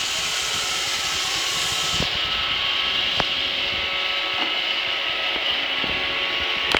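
Roomba robot vacuum running: a steady whirring hiss from its motor, with a few sharp clicks.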